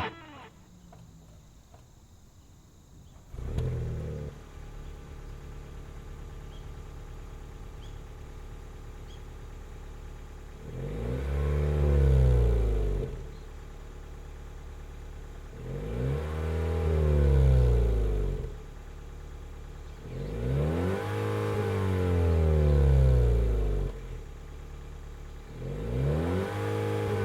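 Honda Vezel hybrid's LEC 1.5-litre four-cylinder exhaust through an aftermarket HKS Silent Hi-Power muffler. The engine catches about three and a half seconds in and runs steadily. It is then revved four times, each rev rising and falling back to idle over two to three seconds.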